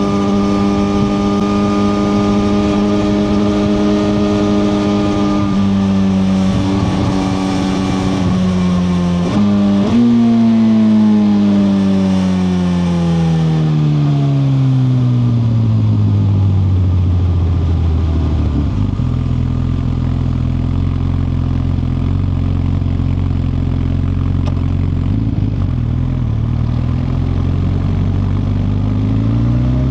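Suzuki GSX-R1000R's inline-four engine holds a steady note at cruise, then the throttle closes, with a quick rev blip about nine seconds in. The pitch falls smoothly for several seconds as the bike slows, then holds a steady low, idle-like note for about ten seconds before rising again near the end as it pulls away.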